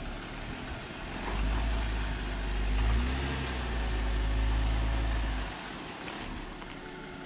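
Jeep Wrangler's engine working under load as the vehicle crawls over a rock ledge. It grows louder and deeper about a second in, holds for about four seconds, then eases back.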